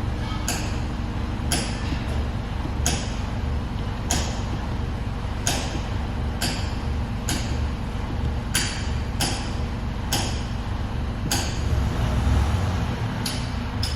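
Mercedes air brake system giving short hissing puffs of air again and again, about once a second at uneven intervals, over the steady running of the engine: the abnormal sound this system makes when its air pressure is full.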